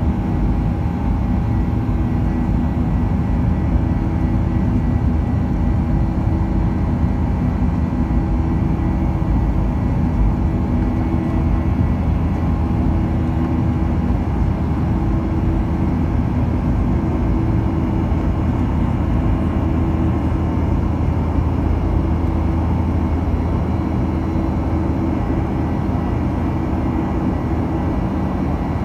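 Cabin noise inside a Boeing 737-900ER airliner after takeoff: the CFM56-7B turbofans and the airflow make a steady drone with a low hum running through it.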